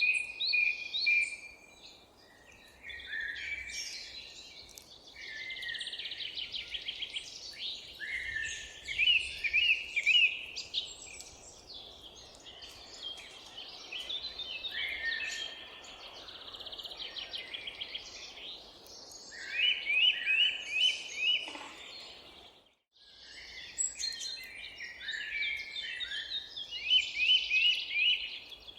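Many songbirds singing and calling over one another: quick repeated trills and chirps. The sound cuts out for a moment about three quarters of the way through.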